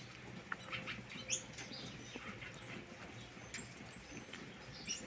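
Diademed tanagers (sanhaço-frade) chirping: scattered short high calls coming in a few clusters, birds excited in breeding condition.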